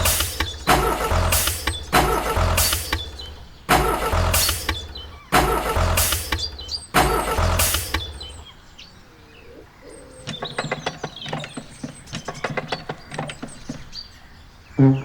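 Vehicle engine sound in a series of loud bursts with a deep rumble, about one a second, like an engine being revved or started over and over. This is followed by a quieter stretch of quick, sharp clicking.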